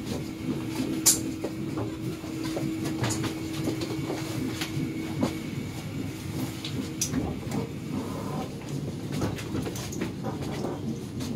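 Mugunghwa passenger train running, heard from inside the carriage by the door as it pulls into a station: a steady low rumble with scattered sharp clicks, and a steady hum that stops about halfway through.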